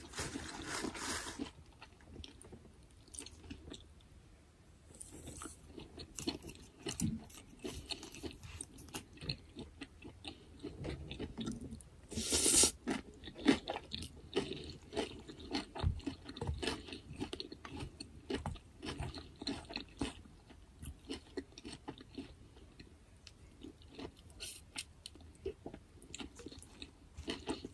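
A person chewing food close to the microphone, with crunchy bites and small wet mouth clicks; a louder, noisier crunch near the start and another about twelve seconds in.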